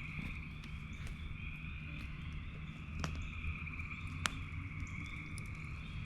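A steady chorus of frogs trilling, over a low rumble, with a few sharp pops from a burning bonfire, the loudest about four seconds in.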